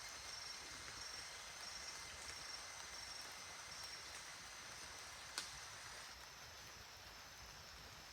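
Quiet forest ambience: a steady hiss with short high chirps repeating about twice a second, which stop about halfway, and a single sharp click about five seconds in.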